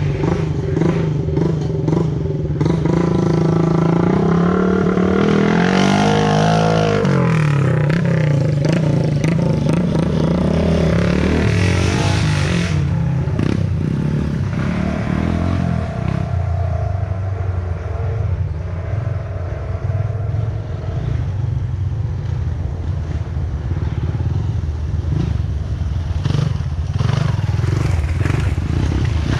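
Off-road trail motorcycle engines revving, with the pitch climbing and then dropping a few seconds in. About halfway through they settle to a lower, steadier running sound.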